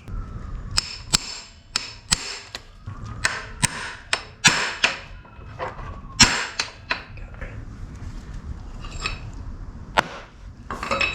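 Hand tools and small metal engine parts clinking, tapping and knocking during motorcycle clutch-side disassembly: a string of irregular sharp clicks and knocks, some with a short metallic ring, the loudest about six seconds in.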